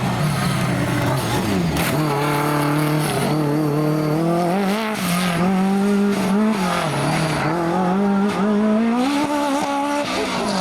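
Rally car engine revving hard on a stage, its pitch climbing and dropping again and again as the driver shifts gear, lifts and gets back on the throttle, with a few sharp cracks along the way.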